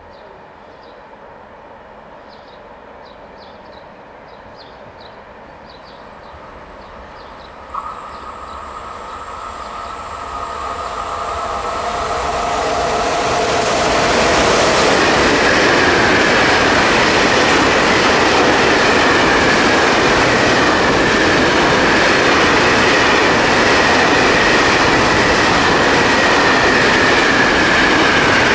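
Electric locomotive hauling a freight train of covered goods wagons, approaching and running through the station. A steady high tone starts suddenly about eight seconds in. The rail noise then builds over several seconds into a loud, steady rush with a high whine as the locomotive and the long string of wagons roll past.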